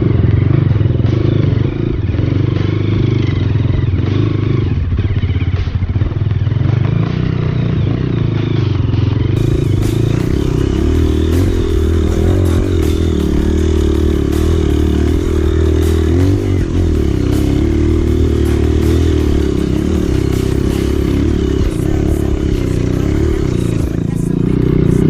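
Off-road trail motorcycle engine running steadily, with repeated knocks and clatter from the bike going over rough ground.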